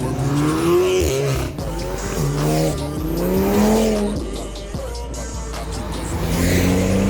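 Car engine revving, its pitch rising and falling several times over a steady low rumble.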